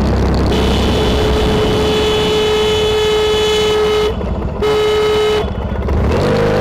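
A vehicle horn held for about three and a half seconds, then a second, shorter blast, over steady engine and road noise.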